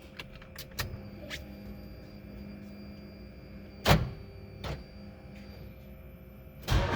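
Light clicks from the key and controls, then one sharp clack about four seconds in and a softer one shortly after, over a faint steady electrical hum. The El Camino's engine does not crank or turn over at all.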